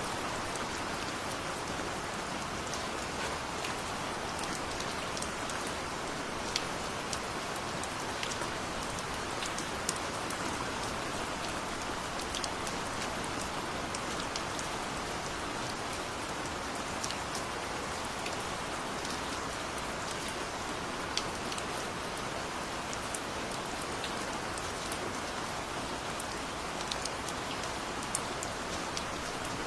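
Steady rain falling, an even hiss of rainfall with scattered individual drops ticking out above it.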